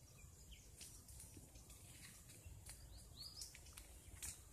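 Near-silent outdoor ambience with a few faint bird chirps, the clearest about three seconds in.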